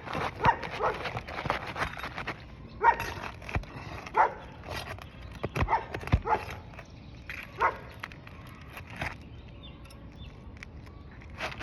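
A dog barking, about half a dozen short barks spread through, mixed with sharp clicks and knocks from the shingle being worked loose.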